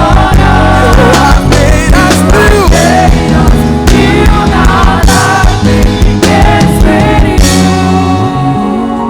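Live church worship band playing, with drums, bass, guitar and keys and some wordless singing; the full band drops away near the end, leaving softer keyboard.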